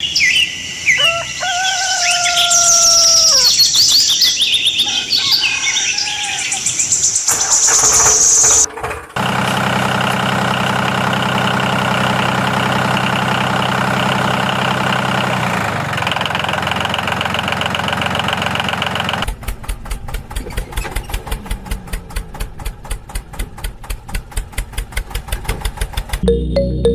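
Chirping, gliding bird-like whistles for the first eight seconds or so, then a steady engine-like hum that shifts partway through, then fast rhythmic chugging pulses like a small engine running, until near the end.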